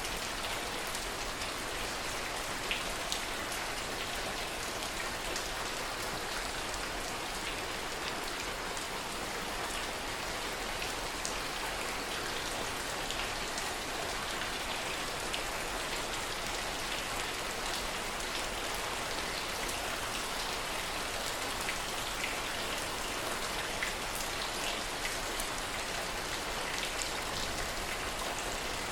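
Steady heavy rain: an even hiss dotted with many small, sharp drop hits.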